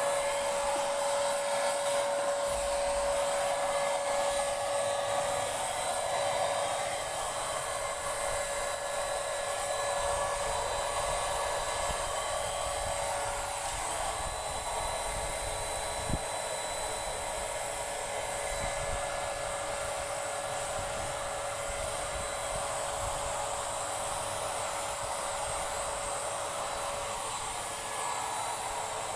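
Paint Zoom electric handheld paint sprayer running steadily: a constant motor whine over an airy hiss of air and spray. There is a single small click about sixteen seconds in.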